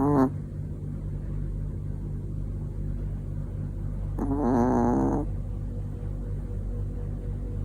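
A sleeping Chihuahua snoring: one pitched, wavering snore lasting about a second, about four seconds in, with the tail of another at the very start, over a steady low hum.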